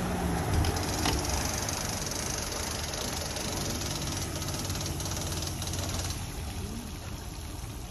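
Toyota RAV4's four-cylinder engine running as it pulls a Sea-Doo jet boat on its trailer up a boat ramp, growing quieter from about six seconds in as the vehicle moves away.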